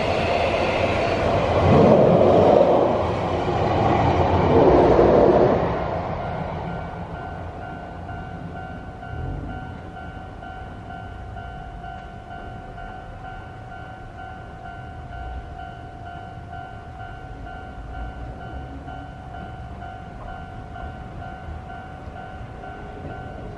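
An electric commuter train runs over a steel girder bridge, loud for the first few seconds with two surges, then fades away. A railway level-crossing bell rings steadily throughout and is heard plainly once the train has passed.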